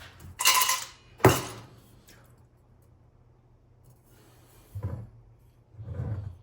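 Hard objects being handled: a ringing clink about half a second in, a sharp knock just after it, then a few softer thumps.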